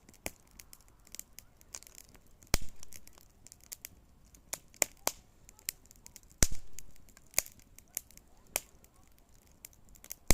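Small wood campfire crackling, with irregular sharp snaps and several louder pops.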